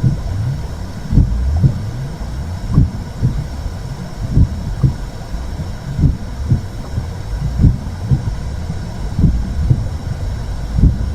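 Womb sound: a steady low whooshing rumble with a muffled heartbeat, double beats about every second and a half.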